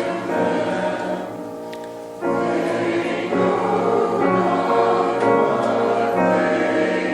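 Choir singing sustained chords with musical accompaniment. It grows quieter about a second in, then swells back up suddenly at about two seconds.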